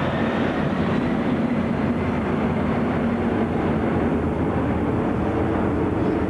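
Jet airliner engines running, a loud steady noise with a low hum underneath.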